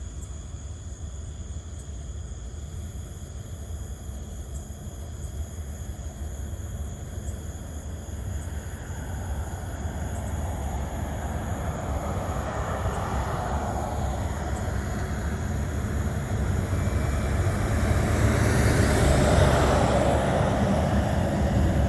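Approaching train's diesel locomotives rumbling, growing steadily louder as the train draws near, with a rising rush of noise over the rumble in the last several seconds.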